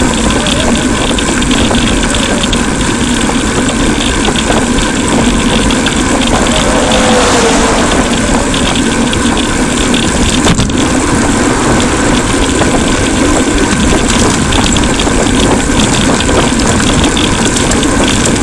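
Steady wind rush and road noise on a bicycle-mounted camera's microphone while riding, with a single sharp click a little past the ten-second mark.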